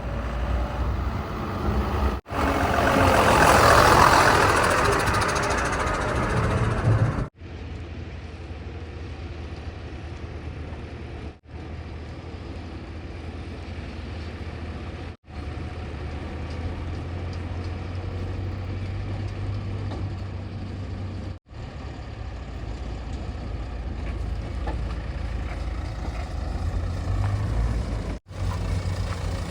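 Heavy diesel machinery and trucks running, a low steady engine hum across several short spliced shots. A few seconds in comes a louder rushing stretch lasting about five seconds.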